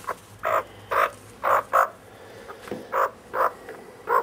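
Australian magpie giving a run of short, harsh, croaky calls, about two a second in loose groups with a pause in the middle.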